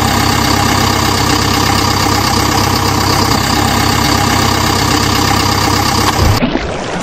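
Dubbed-in engine sound effect: a diesel engine idling steadily, added to footage of a toy backhoe loader. It stops a little over six seconds in.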